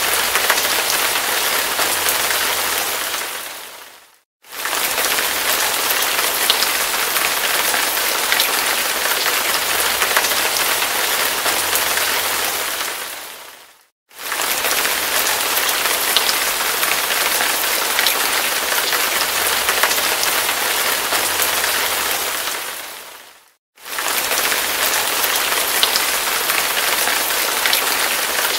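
Heavy rain falling: a steady dense hiss with scattered sharper taps of drops. It fades out to silence and straight back in three times, about every ten seconds, as the recording loops.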